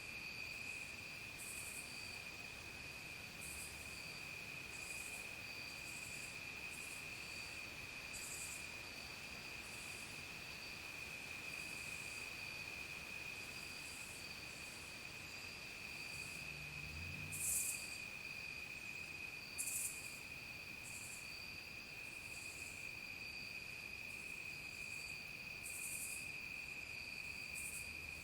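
Evening chorus of crickets: a steady, unbroken high-pitched trill, with short higher-pitched insect pulses every second or two over it, the strongest about two thirds of the way through.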